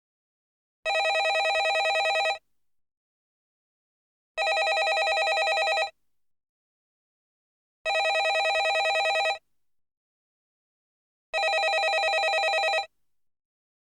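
Landline telephone bell ringing in four rings, each a rapid trill lasting about a second and a half, repeating every three and a half seconds with silence between.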